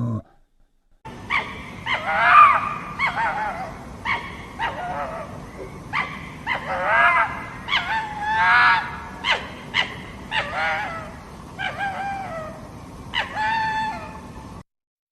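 A series of about a dozen short, high-pitched animal calls or yelps, each bending in pitch, with brief gaps between them.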